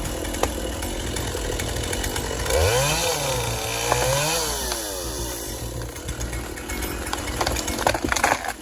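Chainsaw running, revved up and down twice a few seconds in, with steady engine noise either side.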